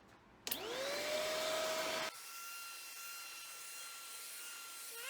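Iwoly V600 corded stick vacuum switched on about half a second in, its motor whine rising quickly and settling to a steady pitch. About two seconds in the sound drops abruptly to a quieter, steady, higher whine, which is very quiet for a vacuum.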